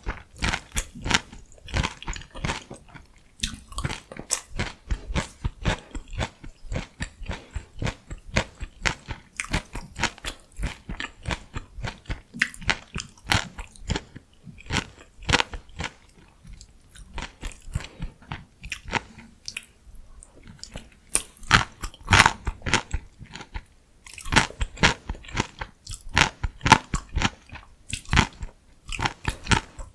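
Close-miked eating: crisp bites and steady crunchy chewing of steamed-cabbage rice wraps and pickled radish and cucumber side dishes. There is a short lull about two-thirds of the way through, followed by the loudest bites.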